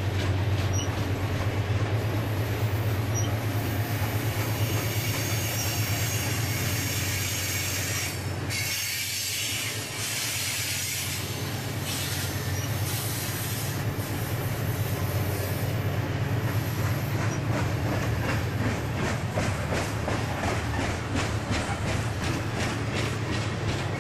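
Canadian Pacific covered grain hopper cars of a freight train rolling past: a steady rumble and rush of steel wheels on rail, with a regular clickety-clack of wheels over rail joints in the later part.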